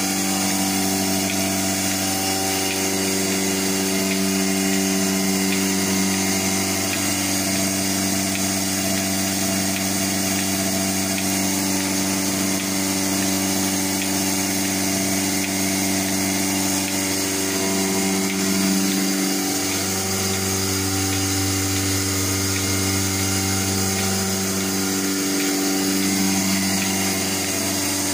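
A motor running steadily with a low hum, its pitch shifting slightly a few times.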